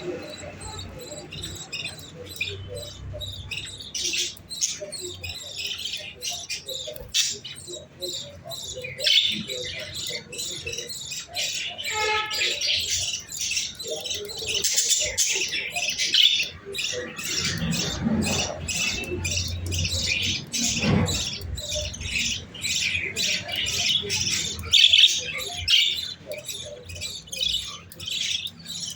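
Young cage birds giving rapid, continuous high chirps and squawks, the begging calls of chicks at feeding time.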